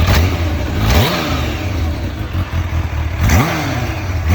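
Kawasaki Ninja H2's supercharged inline-four idling, blipped twice: about a second in and again near the end, the pitch rises sharply and falls straight back to idle.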